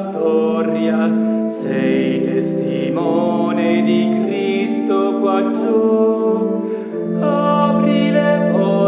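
Church music: singing over sustained accompanying chords, changing note every second or so.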